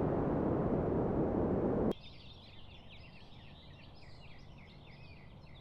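Strong storm wind noise on the microphone for about two seconds, cutting off abruptly. Then many small birds chirp busily, with quick high chirps overlapping.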